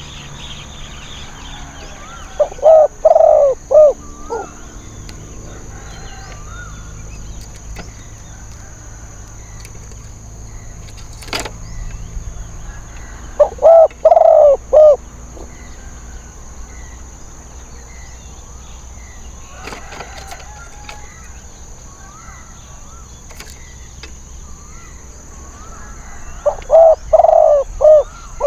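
Spotted dove cooing: three short phrases of several rounded notes each, about twelve seconds apart. A faint steady high-pitched whine runs underneath.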